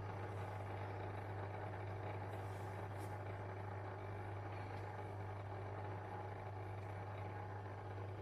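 Zanussi IZ 16 S washing machine running its service-mode spin test, a steady low motor hum. The owner says the spin is not working properly.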